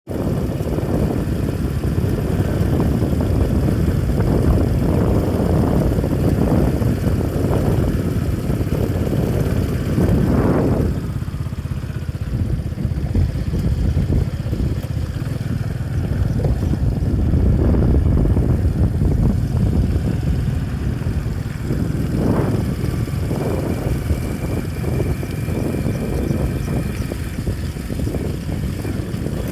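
Steady low rumble of a vehicle on the move, engine and road noise, with two brief swells about ten and twenty-two seconds in.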